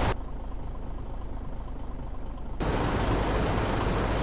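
Tanker truck's engine and road noise heard from inside the cab, a steady low rumble. Just after the start the higher part of the sound drops out abruptly, leaving only the low rumble, and it comes back suddenly about two and a half seconds in.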